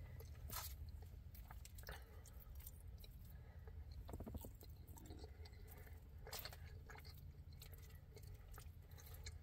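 Faint chewing of a mouthful of cheese-sauced steak chile verde fries, with a few soft clicks scattered through.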